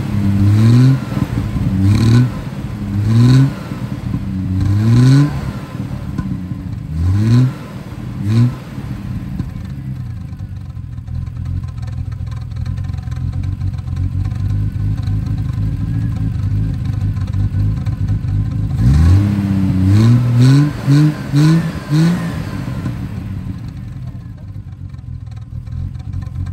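Triumph TR6's 2.5-litre straight-six engine, just revived, running with its carburettor throttle blipped by hand. There are about seven short revs rising in pitch, then about ten seconds of steady idle, then a quicker run of about five revs before it settles back to idle.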